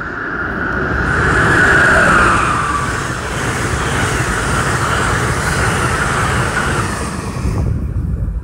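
Electric passenger train of stainless-steel coaches passing at speed. A high whine falls in pitch about two seconds in, where the sound is loudest, under a steady rush of wheels on rail and moving air as the coaches go by. The rush cuts off near the end as the last car passes, with wind buffeting the microphone.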